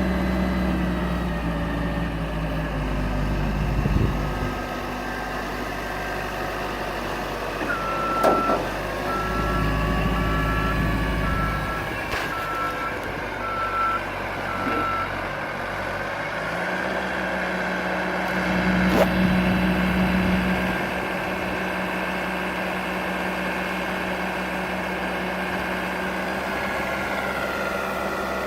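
Cat RT80 telehandler's diesel engine running, its speed rising and falling, with a reversing alarm beeping steadily for about seven seconds in the middle. A few sharp knocks sound now and then.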